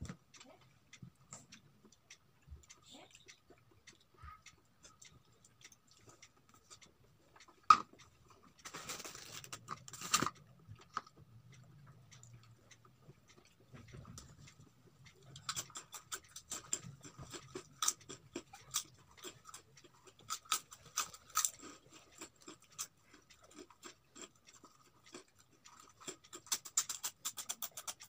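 Close-up eating sounds: chewing with wet mouth clicks and smacks, and fingers picking food from a plastic bowl. The clicks are sparse at first and come thick and fast in the second half, with one sharp knock about eight seconds in and a short rustle just after.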